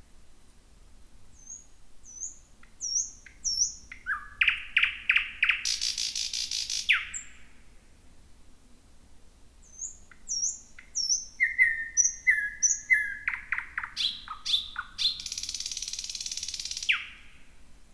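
Thrush nightingale singing two song phrases. Each opens with thin, high notes, moves into a run of loud clipped notes, and ends in a harsh rattle with a falling note; there is a pause of a few seconds between the phrases.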